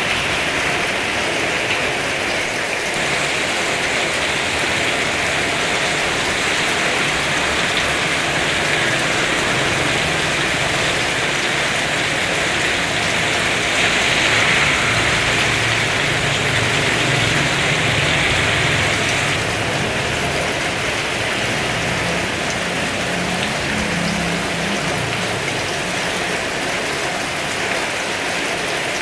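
Heavy rain falling steadily in a dense, even hiss. A faint low rumble swells and fades in the middle.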